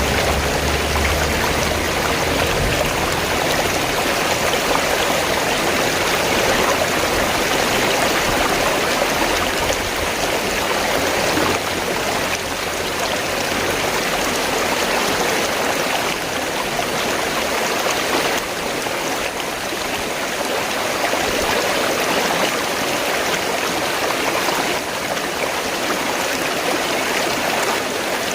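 River water flowing steadily, a dense even rush of running water. A low rumble underneath fades away in the first two seconds.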